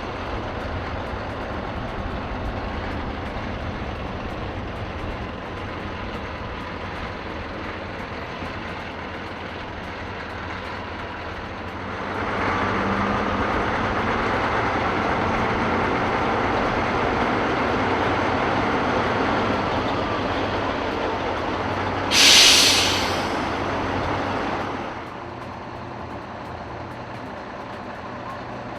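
Heavy trucks running and manoeuvring, with engine noise that grows louder about halfway through as one comes closer. Near the end comes a short, loud hiss of air brakes.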